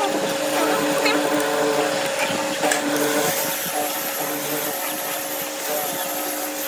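Electric power tool motor running with a steady whine.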